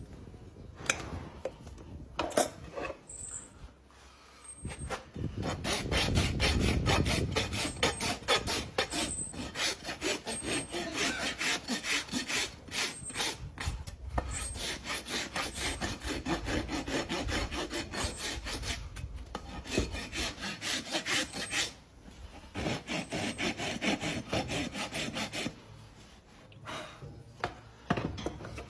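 Rapid, repeated scraping and rubbing strokes of a hand tool working a horse's hoof. The strokes start about five seconds in, stop briefly a few seconds before the end, and resume for a short stretch, with a few light knocks around them.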